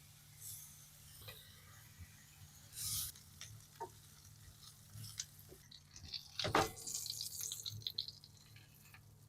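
Kitchen handling sounds during breakfast prep: scattered clicks and clinks, a short rush of water about three seconds in, and a louder clatter about six and a half seconds in.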